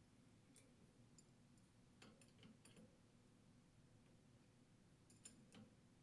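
Near silence with a few faint, scattered metal clicks: adjustable wrenches working on a detergent pump check valve housing held in a vise.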